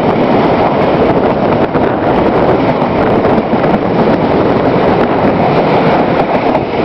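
Train running along the rails, heard from on board: a loud, steady rumble and rattle of wheels and cars.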